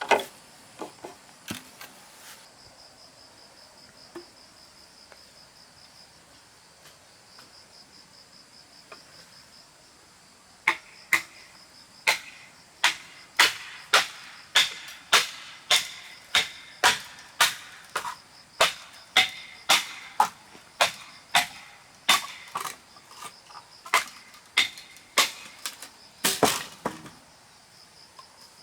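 Insects chirring steadily in the background, then from about ten seconds in a regular run of sharp knocks of a hand tool on wood, about two a second, ending with a short louder rasp.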